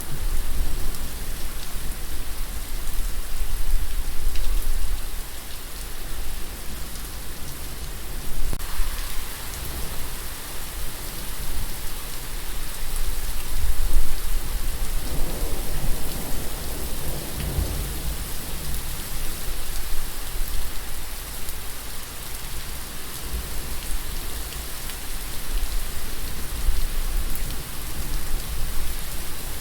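Steady rain falling and pattering, with a low rumble of distant thunder swelling about halfway through.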